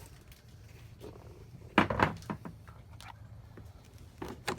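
Clunks and rattles of beekeeping gear, a nuc box and feeder, being handled: a loud cluster about two seconds in and a shorter one near the end, over a steady low hum.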